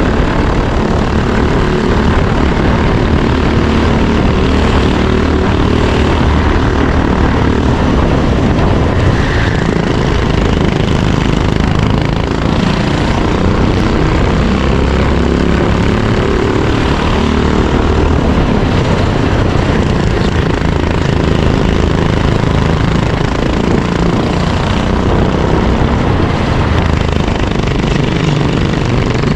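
Racing kart engine running hard, heard up close from the kart, its note rising and falling as the kart accelerates and lifts through the lap.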